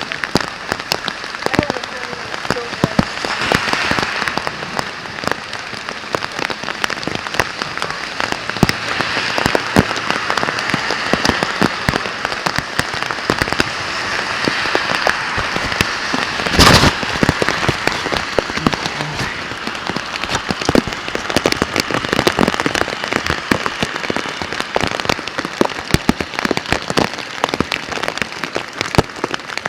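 Heavy rain falling, with a dense patter of drops striking close by. One short, sharp crack stands out about two-thirds of the way through.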